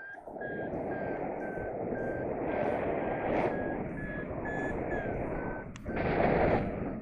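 Paragliding variometer beeping in short, even pips about twice a second, the intermittent beep that signals the glider is climbing, over wind rushing on the microphone. Near the end the beeps stop, there is a click, and a stronger gust of wind follows.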